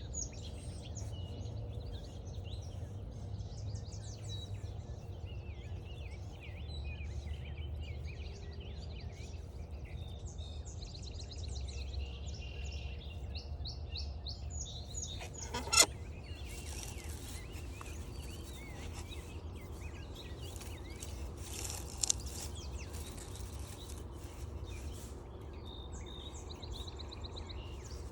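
Many songbirds singing at once: overlapping chirps and trills over a low steady rumble. A sharp click a little past halfway is the loudest sound, a smaller one follows several seconds later, and a hiss of noise runs through the later middle stretch.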